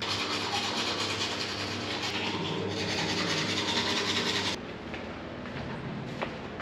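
Steady rumble and hiss of a vehicle in motion, with an underlying hum. It drops abruptly to a quieter, duller hum about four and a half seconds in.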